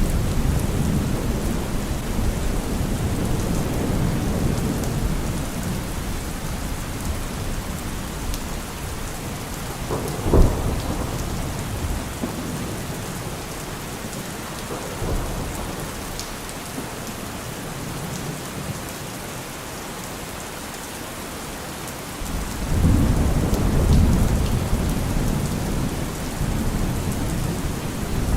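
Heavy rain drumming steadily with rolling thunder. A rumble fades over the first few seconds, a sharp crack of thunder comes about ten seconds in, and a new deep rumble swells near the end.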